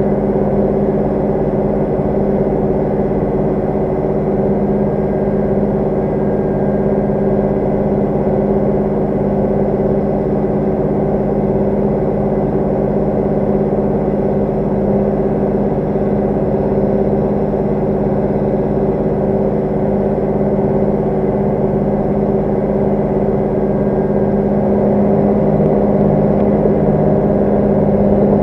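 Tractor diesel engine running steadily at an even speed, a constant deep drone with no change in pitch.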